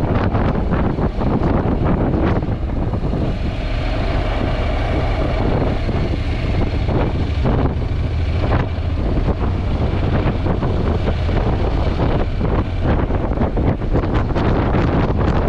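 Heavy wind noise buffeting a GoPro's microphone on a moving Honda NC750X motorcycle: a loud, steady low rumble with constant fluttering gusts that swamps any engine sound.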